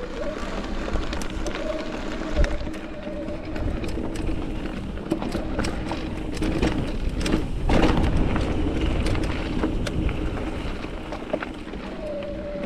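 Mountain bike rolling fast over a rocky trail, heard from the bike: steady tyre and wind noise with frequent clicks and rattles of the bike over rocks, loudest about eight seconds in. A wavering hum comes and goes near the start and near the end.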